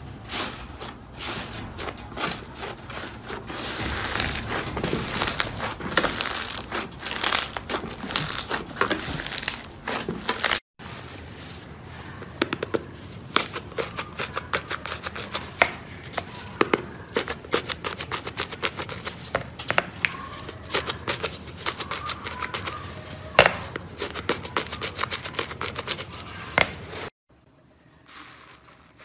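Slime being squished and pressed by hand, giving dense, irregular crackling and popping clicks. The sound breaks off for a moment about ten seconds in and turns much quieter near the end.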